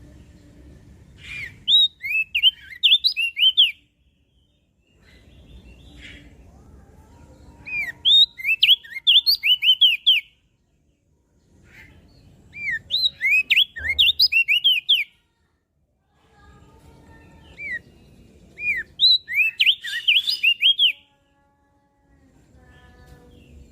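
Crested white-eye (opior jambul) singing: four bouts of rapid, high chirping notes, each lasting two to three seconds, with short pauses between them.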